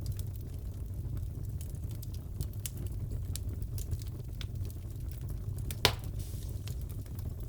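Fireplace crackling: a steady low rumble of burning with scattered small pops and clicks, and one louder pop about six seconds in.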